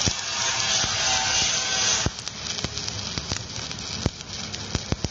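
Stick (electric arc) welding arc crackling and sizzling on steel; the arc stops about two seconds in, leaving a quieter crackle with scattered sharp pops and clicks.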